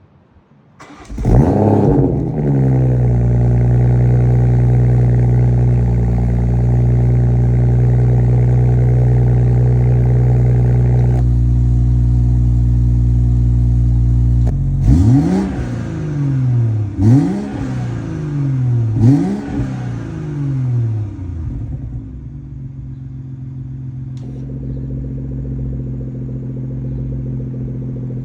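BMW 540i's B58 3.0-litre turbocharged inline-six, through a full custom exhaust, starting up with a brief rev flare and settling into a steady, loud idle. About halfway through it is blipped about four times, roughly two seconds apart, each rev rising and falling back. It then settles to a lower idle.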